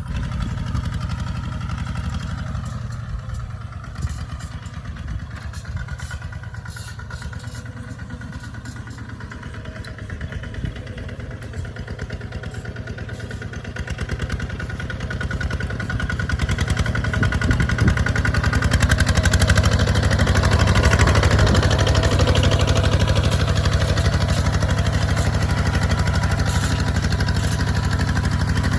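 Kubota RT155 DI single-cylinder diesel engine running steadily with a fast, even firing beat while plowing. It grows louder about halfway through and stays louder.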